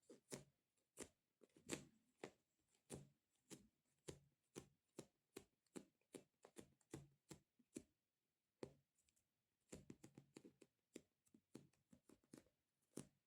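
Light taps and sticky clicks of fingers on a squishy stress-relief toy, about two or three a second, with a brief pause partway through and quicker taps after it.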